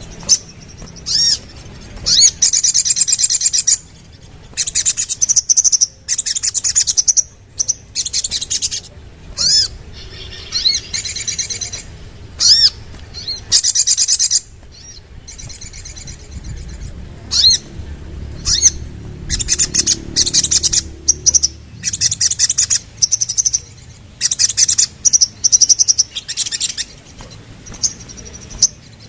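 Little spiderhunter (sogok ontong) singing: loud, high-pitched bursts of fast chattering trills, one to two seconds each, broken by single sharp chips and short pauses.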